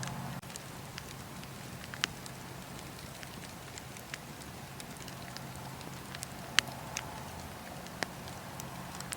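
Wood fire in a fireplace crackling: a steady hiss broken by scattered sharp pops of burning wood, the loudest about two-thirds of the way through.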